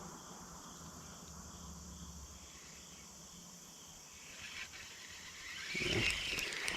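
Steady faint chorus of crickets and other insects. Near the end it is joined by a louder rustling, handling noise.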